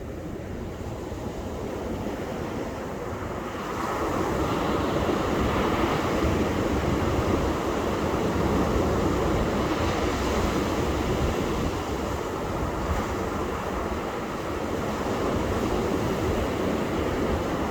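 Ocean surf washing onto a beach as a steady rush, swelling louder about four seconds in as a wave breaks and holding there.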